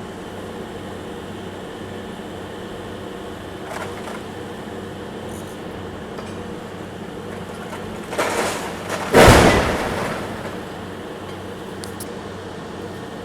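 Demolition excavator's diesel engine running steadily, with masonry and brick rubble crashing down twice: a short crash about eight seconds in, then a heavier, louder one a second later that fades out over about a second.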